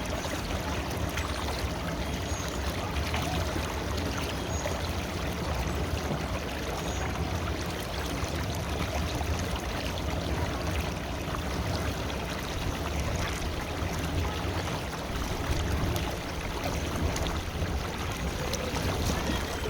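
River water flowing steadily, a continuous rush that does not change.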